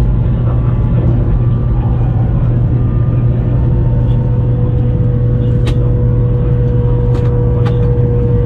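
Steady rumble of a Taiwan High Speed Rail bullet train running at speed, heard from inside the carriage. A steady higher tone joins about three seconds in, with a few faint clicks.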